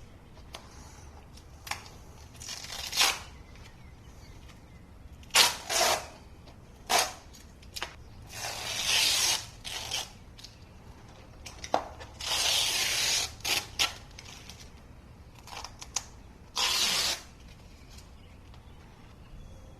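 Tape being peeled off vinyl flooring in a series of ripping pulls, some short and two longer ones, with quieter handling sounds between them.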